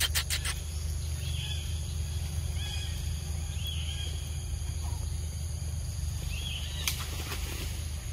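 Forest ambience: short arched bird chirps repeat every second or so over a steady low hum, with a few quick clicks at the start.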